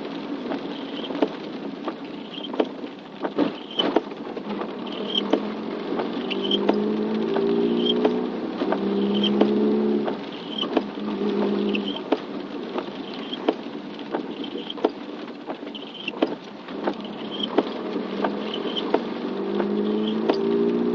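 Rain pattering, with scattered sharp drops. A short high chirp repeats about every second, and a low hum comes and goes.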